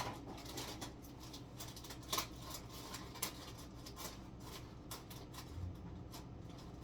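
Scattered light clicks and rustles of a plastic spinach package being handled to open it.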